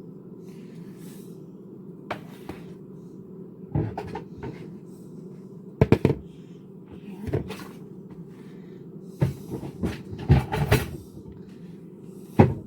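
Kitchen cupboard doors and kitchenware knocking and clunking as a bowl and cutting board are got out: a handful of scattered short knocks, a few of them doubled, over a steady low hum.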